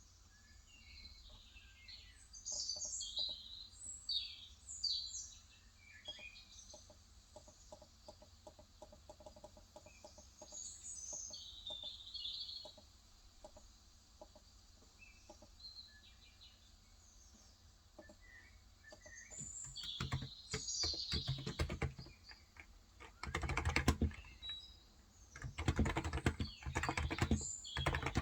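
Birds chirping in short high calls through the first half. From about twenty seconds in, fast typing on a Cox Endeavor electro-capacitive (Topre-style) 35 g tenkeyless keyboard comes in as a dense run of soft key clacks.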